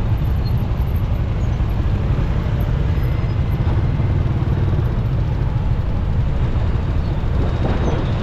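Motorcycle riding in city traffic: steady engine and road noise with a heavy low rumble that doesn't let up.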